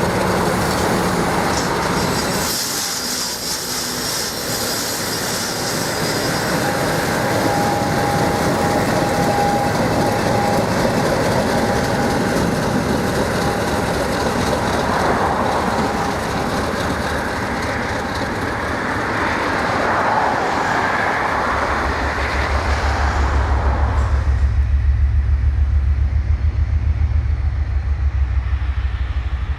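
A train running past on the rails, with clickety-clack from the wheels and a thin wheel squeal holding for several seconds in the middle. Near the end the train sound fades and a deep, pulsing low rumble takes over.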